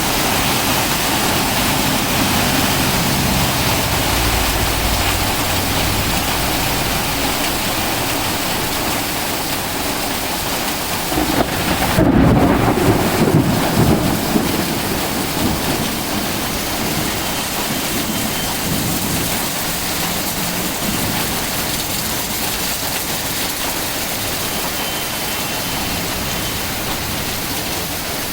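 Heavy rain pouring steadily, with a low rumble of thunder rising about eleven seconds in and lasting about three seconds.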